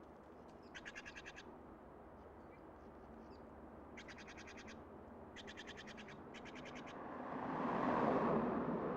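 A bird's short, rapid trilled calls, three times over. Near the end a passing car's rush of noise swells and begins to fade.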